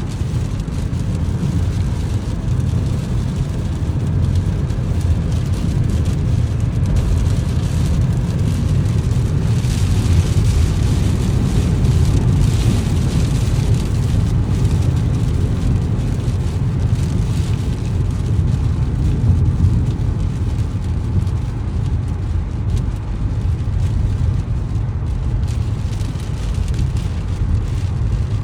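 Car driving on a wet road in rain: a steady low rumble of tyres and engine under an even hiss of rain and spray, the hiss briefly louder about ten seconds in.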